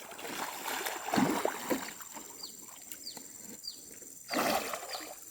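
A bird calling in a series of short, high, falling chirps, about one every half second to second, with a couple of soft swishes in between.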